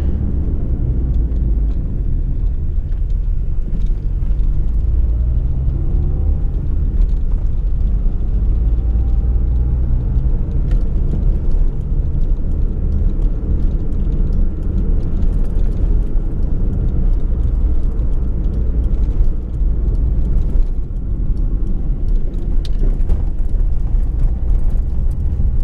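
Fiat Uno driving: a steady low engine and road rumble, with the engine note rising a couple of times as it accelerates.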